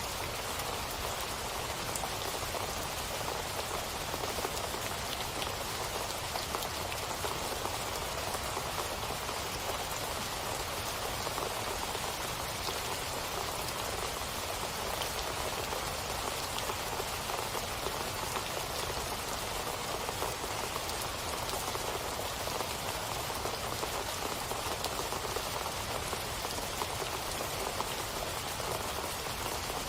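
Steady rainfall, an even patter of many drops with fine scattered ticks of individual raindrops hitting a surface.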